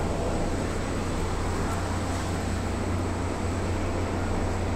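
PNR commuter train running, heard from inside the passenger car: a steady low hum under an even rumble of running noise.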